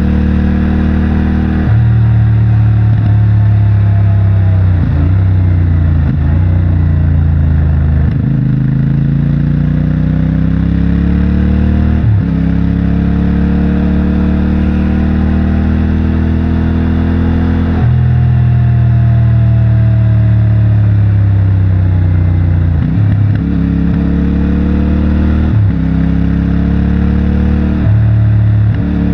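CFMOTO 450MT's parallel-twin engine through its stock exhaust, heard from the rider's position. Revs fall and climb again several times, each change broken by a short gap where the rider shifts gear, as the bike slows and accelerates through the bends.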